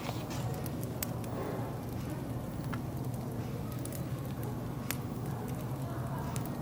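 Wood fire crackling: scattered sharp pops and snaps over a steady low hum.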